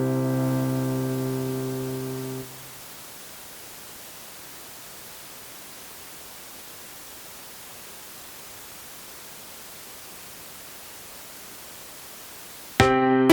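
Electronic keyboard on auto-play: a held piano chord fades and is cut off about two and a half seconds in. Then comes a steady hiss for about ten seconds, the noise floor of the keyboard's line output cabled directly into the camera. Near the end a new piece starts with loud piano chords.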